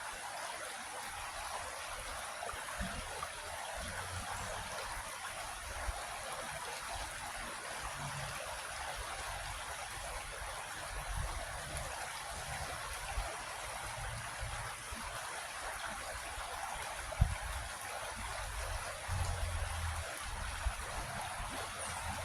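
Creek water running and babbling steadily over rocks, with one brief low thump about three-quarters of the way through.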